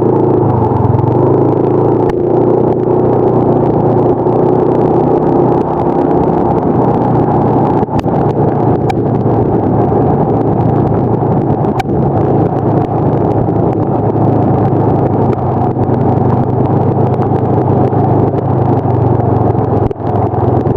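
Motor vehicle engine running steadily while under way, with a few short sharp clicks.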